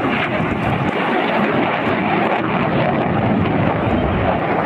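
Military aircraft flying past with loud, steady engine noise that gets deeper in the second half.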